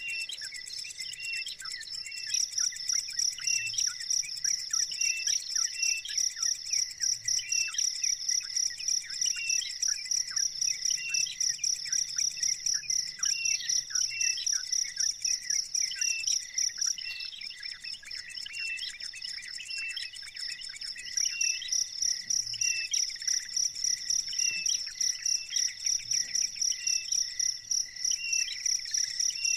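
Insect chorus led by a cricket-like high, fast-pulsing trill that stops for a few seconds just past the middle, over short chirps repeating about once a second.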